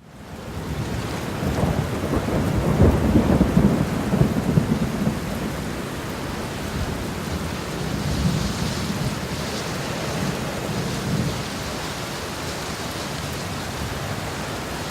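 Thunderstorm: steady heavy rain with a rolling rumble of thunder that swells over the first couple of seconds and is loudest about three to five seconds in. It then settles into a steady downpour with fainter rumbles.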